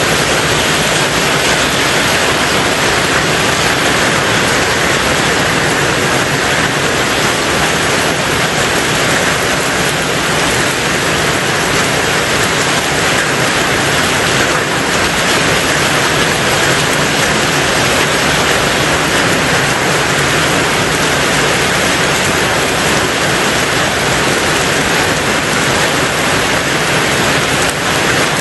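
Rain falling steadily on a tin roof, a dense, even hiss with no breaks.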